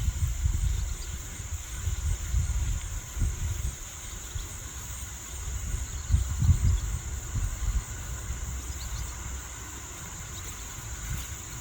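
Wind buffeting the microphone in uneven gusts, strongest near the start and about halfway through, over a steady high-pitched drone of insects.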